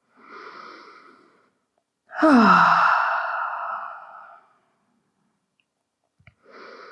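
A woman breathing audibly: a soft inhale, then a long, louder sighing exhale whose voiced start falls in pitch, then another soft inhale near the end. It is a slow breath taken while resting in child's pose.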